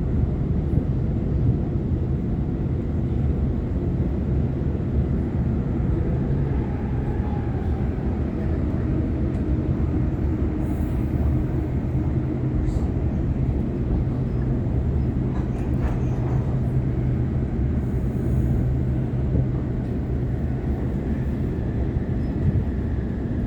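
Sydney Trains Waratah B-set electric multiple unit running at speed, heard from inside the carriage: a steady rumble of wheels on track with a steady low motor hum and a faint gliding whine.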